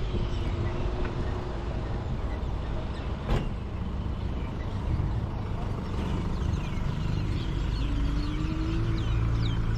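Road traffic around the riding e-bike: motor vehicles running nearby with a steady low rumble, growing a little louder near the end, and one short click about a third of the way in.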